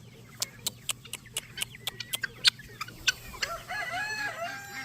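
Poultry: a quick run of sharp clicks, then, about three and a half seconds in, a drawn-out call that steps up and down in pitch, like a rooster crowing or a hen's long call.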